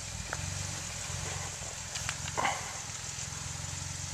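Off-road vehicle engine idling steadily, with a few faint clicks and one short, sharper sound about two and a half seconds in.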